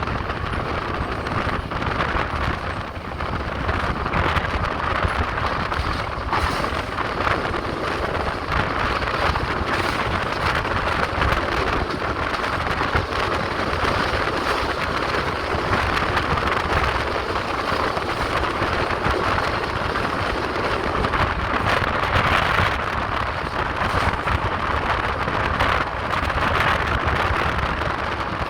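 Passenger train running steadily along the track: a continuous rumble and rush of wheels on rails, with occasional faint clicks.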